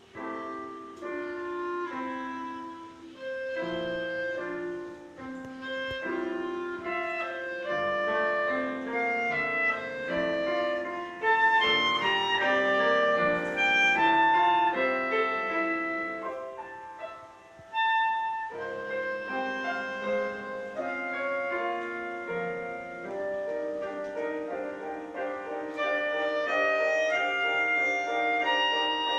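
Instrumental duo music: a sustained melody line over chordal accompaniment, growing louder through the middle of the passage, with a brief drop before it picks up again.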